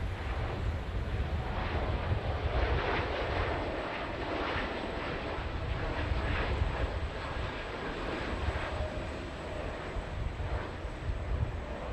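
Passenger jet's engines running at high power as it passes: a steady rush over a low rumble, loudest a few seconds in and easing slightly toward the end.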